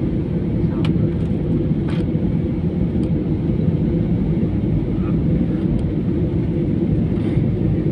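Steady roar of engine and airflow noise heard inside an airliner cabin in flight, with a faint steady hum and a few light clicks.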